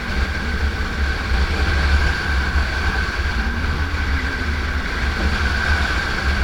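Motorcycle being ridden at speed: a steady engine and road drone with a thin, even high whine, under heavy wind rumble on the helmet microphone.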